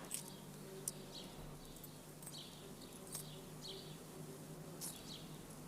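Faint birdsong: short chirps from small birds recurring every second or so, over a low steady hum.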